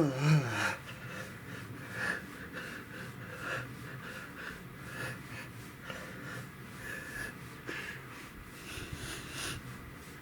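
A man breathing hard in uneven puffs, about one a second, while pedalling a bike trainer, with a short wavering vocal sound at the very start.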